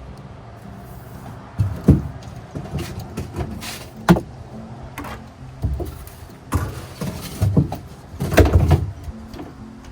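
Irregular knocks and clunks of objects being handled, over quiet background music; the sharpest come about two seconds in, about four seconds in, and in a cluster near the end.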